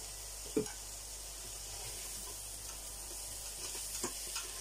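Chicken and carrots frying in a pan, a steady sizzle, while they are stirred. There is a knock about half a second in and a few short scrapes near the end.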